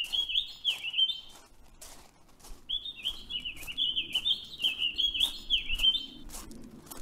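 Songbird singing a rapid run of warbling chirps, which breaks off about a second in and resumes a couple of seconds later. Light sharp clicks or taps sound through it.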